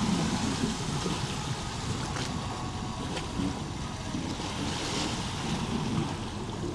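Water swishing about in a cruise ship's deck swimming pool as the ship moves, sounding like waves lapping, with wind buffeting the microphone.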